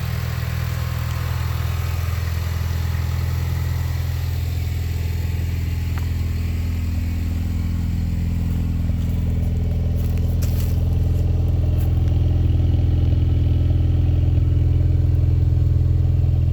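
2019 Ford Mustang EcoBoost's 2.3-litre turbocharged four-cylinder idling steadily through a Solo Performance catback exhaust, a low, even drone shortly after a cold start. It grows slightly louder in the second half.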